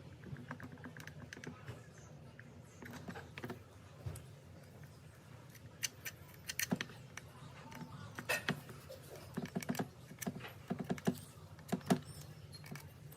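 Irregular light clicks, taps and clinks of small hard parts and hand tools being handled, as the rotary hammer is worked on by hand. The taps grow more frequent about halfway through.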